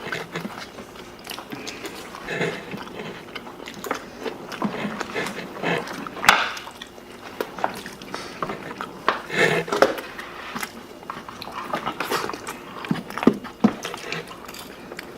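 People biting and chewing pizza close to the microphone, with scattered short clicks and soft smacking noises.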